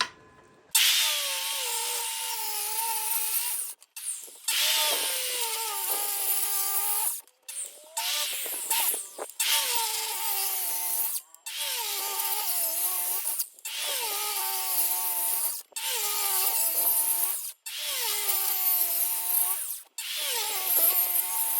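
Electric circular saw set to 5.5 cm depth making a series of short kerf cuts into old hardwood beam, about nine runs of two seconds or so with brief stops between. Its whine sags in pitch at the start of each cut. The closely spaced cuts weaken the wood so a chisel can clear out a recess.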